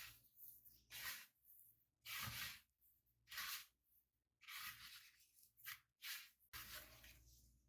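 Faint kitchen food-preparation handling noises: about six short scraping and rustling strokes with quiet gaps between them.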